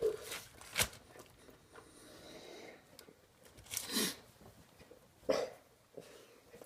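A person chewing and eating food with the mouth close to the microphone. A few short, separate mouth and breath noises stand out: a sharp click about a second in, and two louder ones about four and five seconds in.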